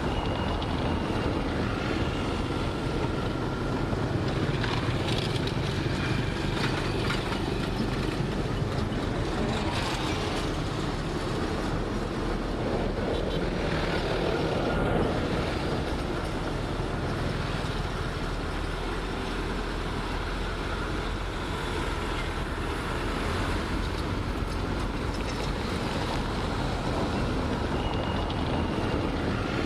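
Heavy diesel earthmoving machinery running steadily under work, with faint thin high tones that come and go.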